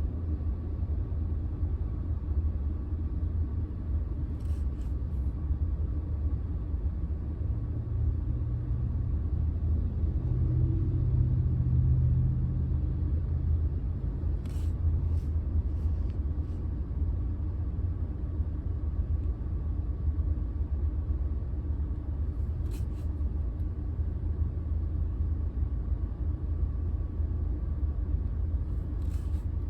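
Car engine and road rumble heard inside the cabin, steady and low. The engine note rises and then falls back for a few seconds about a third of the way in. A few faint clicks come here and there.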